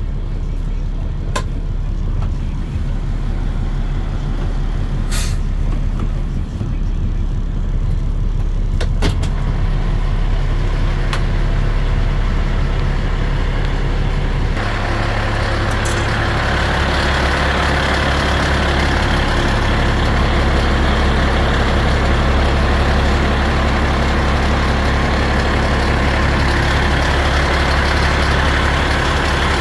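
2017 Mack Granite GU4 packer garbage truck's engine running steadily with a few sharp clicks. About halfway through, the engine note changes and a louder rushing, whirring noise joins and holds to the end.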